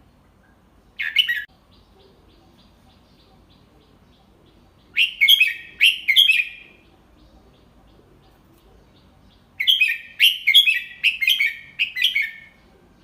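Red-whiskered bulbul singing in short phrases of quick, bright notes. There is a brief call about a second in, a phrase of about three notes around the middle, and a longer run of about seven notes near the end.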